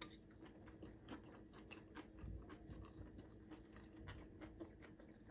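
Faint chewing of a mouthful of stir-fried udon noodles, with many small irregular mouth clicks.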